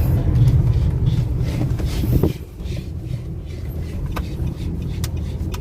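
Nissan Calibre pickup's diesel engine running as the truck sets off on a test drive, a steady low rumble that drops a little over two seconds in.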